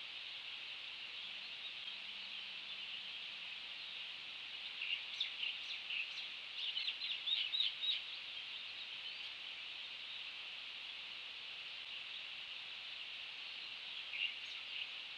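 A bird chirping in a quick run of short calls about five seconds in, and briefly again near the end, over a steady high hiss.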